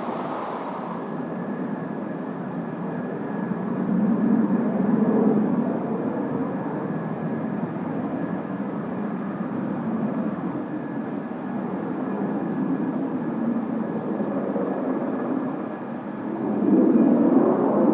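Distant jet aircraft engine noise at an air base: a steady rush with a faint high whine, swelling about a quarter of the way in and growing louder near the end.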